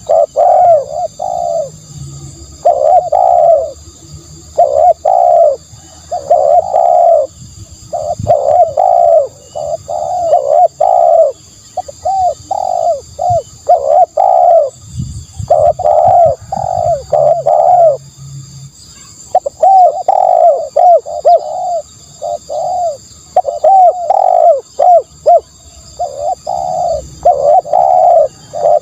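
Spotted dove cooing over and over, in short phrases of two to four notes with brief pauses between them.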